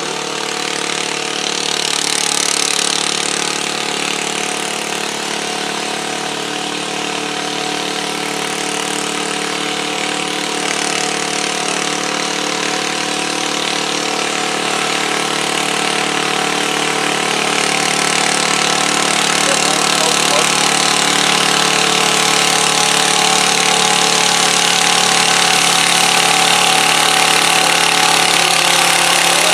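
Garden pulling tractor engine running steadily, growing gradually louder in the second half.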